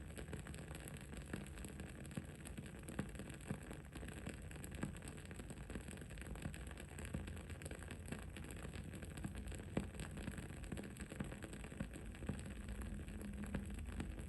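Wood-wick candle burning, with soft irregular crackles and small pops over a steady low rumble and hiss of background noise.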